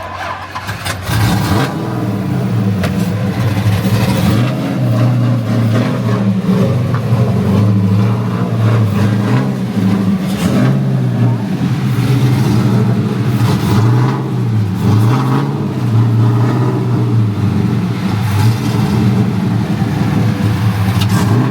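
Cammed GM LQ4 6.0-litre V8 running at a steady, lumpy fast idle, coming in loud about a second in and wavering slightly in pitch.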